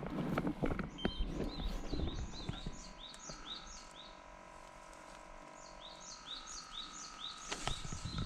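Bird chirping: short high chirps repeated several times a second. Footsteps and rustling in vegetation at the start and again near the end, with a quieter stretch between.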